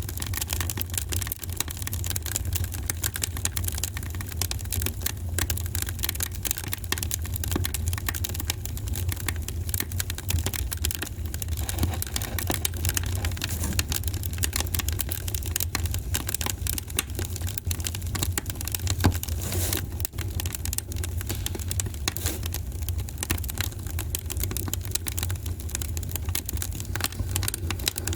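Wood fire in a fireplace crackling steadily, with many small pops and snaps over a low rumble, and one sharper pop about two-thirds of the way through.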